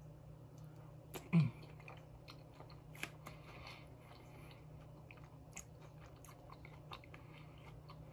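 Close-miked chewing of a mouthful of soft, gravy-covered food, with scattered wet mouth clicks and lip smacks, and a short low 'mm' from the eater about a second in.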